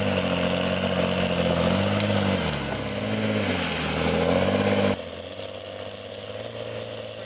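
Heavy machine's diesel engine running under working load, its pitch dipping and recovering twice as it lugs. About five seconds in, the sound cuts abruptly to a quieter, steady engine.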